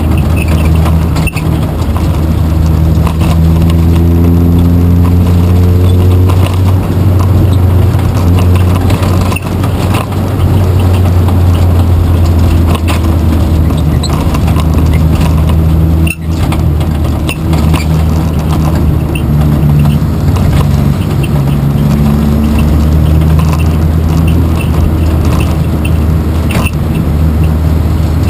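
Race car engine running loudly with a steady low drone, its pitch rising in places as the revs change. A brief knock about 16 seconds in.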